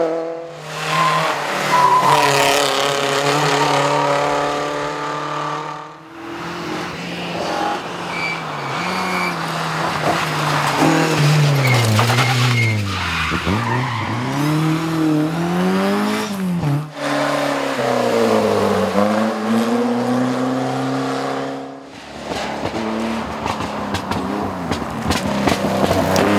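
Historic rally cars at full throttle on a rally stage, engines revving up and dropping back through gear changes. The sound switches abruptly three times as one car gives way to the next.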